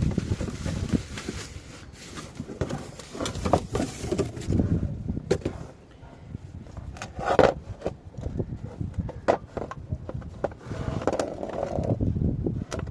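Irregular clicks, knocks and scraping of car parts being handled by hand, several sharp knocks among rustling and scraping.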